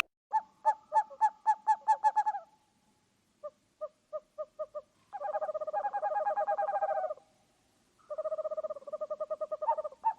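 A bird calling in runs of quick, repeated hooting notes, with short pauses between runs and a longer trilled stretch in the middle.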